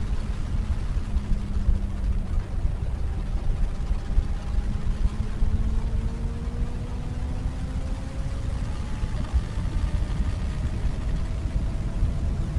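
Wind buffeting the microphone on a moving motorcycle, louder than the Benelli BN600i's inline-four exhaust underneath it. The engine note climbs slowly from about midway as the bike gathers speed.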